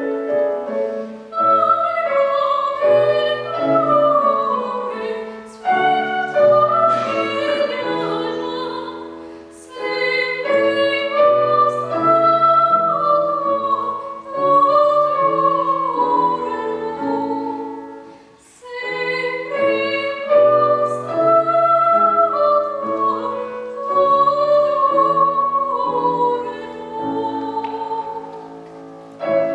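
A child singing a classical song in academic style with piano accompaniment. The voice holds long, wavering high notes in phrases, with brief breaths about a third and two-thirds of the way through.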